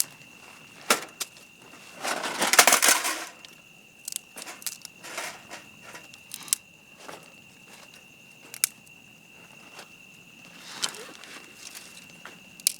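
Camp gear being handled: scattered sharp clicks and knocks, with a louder rustling crunch lasting about a second, starting about two seconds in. A steady thin high-pitched tone sounds under it throughout.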